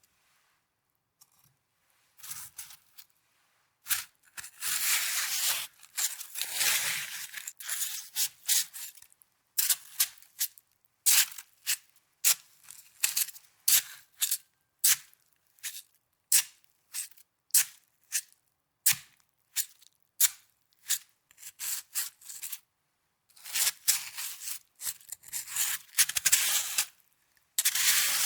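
Snow being crunched and scraped close to the microphone. After a brief quiet, there is a few seconds of continuous crisp crunching, then a run of short sharp crunches about two a second, then continuous crunching again.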